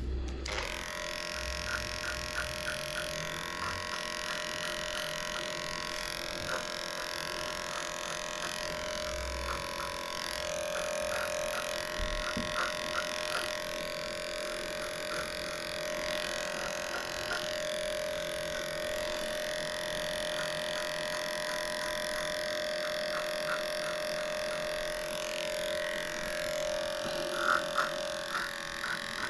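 Electric dog clippers running with a steady hum while shaving a matted coat, with short clicks now and then.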